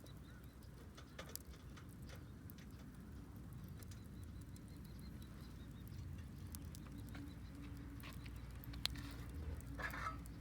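Wood fire crackling faintly, with scattered sharp pops and one louder pop near the end, over a low steady rumble.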